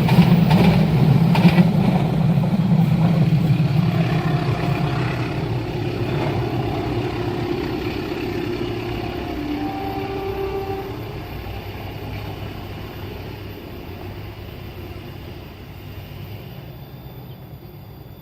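A train rolling past and moving away, with wheel clatter over the rails in the first couple of seconds, then a steady rumble that fades gradually until it is faint near the end.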